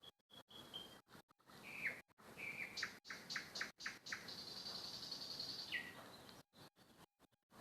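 A songbird singing. A phrase of short downslurred whistled notes runs into a long high trill that ends on a lower note, with the sound cutting in and out briefly.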